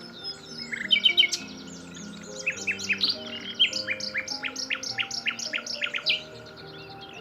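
Common nightingale singing: a quick burst of notes about a second in, then a fast run of repeated down-slurred notes, about four or five a second, before the phrase ends.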